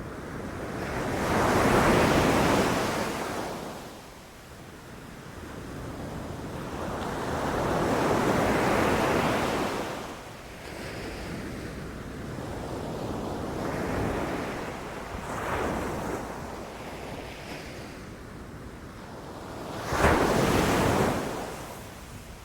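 Ocean waves breaking on a beach, the surf swelling and fading in slow surges. Two long waves come early, smaller ones follow, and a sharper wave crashes near the end.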